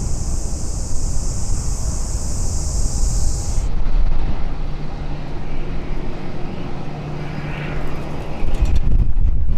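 Aircraft engine noise with a deep, steady rumble. A high steady hiss cuts off abruptly about three and a half seconds in.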